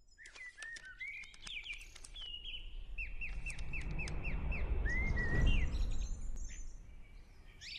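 Birds chirping and singing, including a run of repeated down-slurred whistled notes, over a low rushing noise that grows louder toward the middle.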